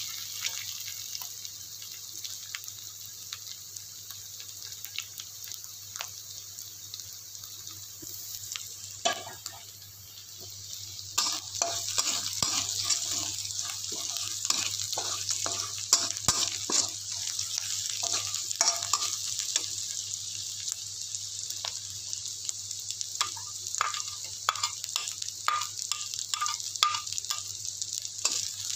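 Chopped garlic, shallots and red chillies sizzling in oil in a steel wok while a metal spatula stirs them, scraping and tapping the pan. The sizzle gets louder about eleven seconds in, and the scraping comes more often from then on.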